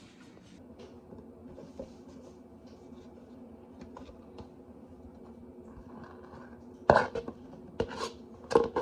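Dishes and utensils being handled: faint clicks and scrapes over a steady low hum, then three loud knocks or clatters near the end.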